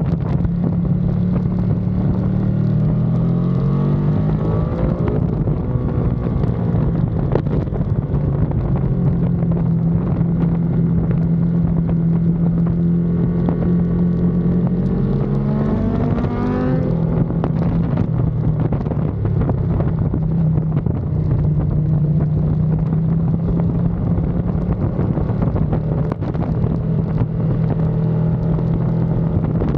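Ducati Panigale V2's 955 cc twin-cylinder engine running hard on track. Its note shifts through the first few seconds, holds steady, then climbs for a couple of seconds and drops sharply about seventeen seconds in before settling at a steady pitch.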